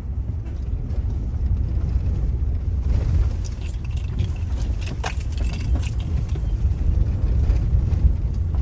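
Low rumble of a moving car heard from inside the cabin, with light metallic jingling and rattling from about three to six and a half seconds in.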